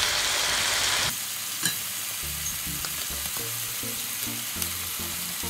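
Sliced bell peppers and onions sizzling in oil in a hot stainless steel pan, a steady frying hiss that drops in level after about a second. A single light knock sounds about a second and a half in.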